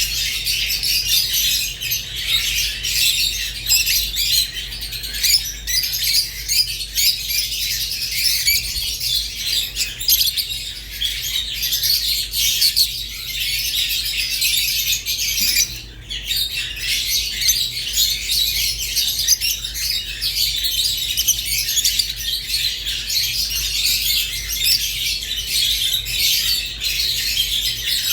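Rosy-faced and Fischer's lovebirds chattering and chirping continuously in a dense, high-pitched stream, with a brief lull about sixteen seconds in. A steady low hum sits underneath.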